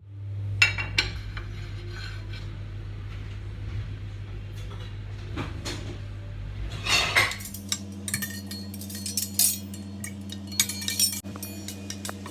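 Dishes and cutlery clinking and clattering, many sharp knocks over a steady low hum.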